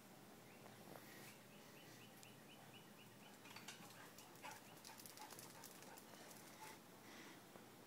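Near silence outdoors, with a faint quick run of high bird chirps, about seven a second for two seconds, starting about a second and a half in; a few faint clicks follow.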